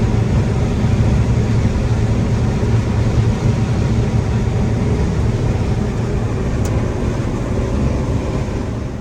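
Combine harvester running steadily under load while harvesting corn: a dense, low engine and machinery drone that eases off slightly near the end.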